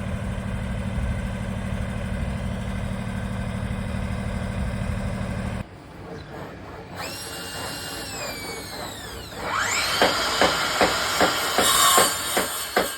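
Kubota B-series compact tractor's diesel engine idling steadily, cut off abruptly about five and a half seconds in. It is followed by several falling, sweeping tones and then a run of sharp clicks with ringing tones through the last few seconds.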